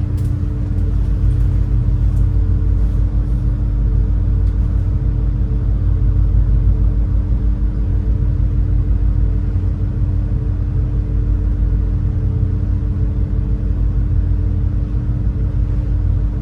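Steady low engine rumble with a constant hum of a high-speed passenger boat's engines, running evenly while the boat holds back waiting for one-way passage through a narrow strait.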